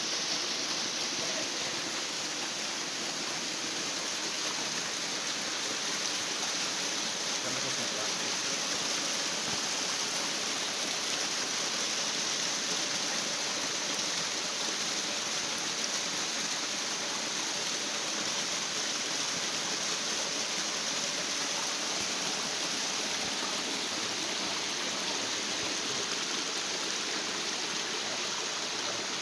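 Waterfall and mountain stream: a steady, even rush of falling and flowing water.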